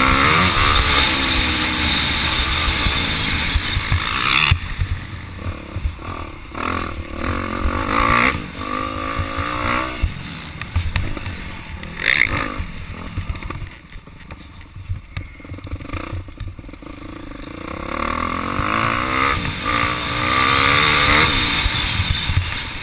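Motocross dirt bike engine revving up and down as it rides. It is loud and close at first, drops off suddenly about four seconds in, fades further off in the middle, then builds back up and is loud again near the end.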